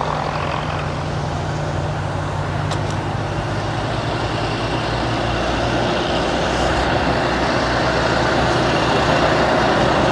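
Volvo VNL truck's diesel engine running with a steady low hum, getting gradually louder over the last few seconds.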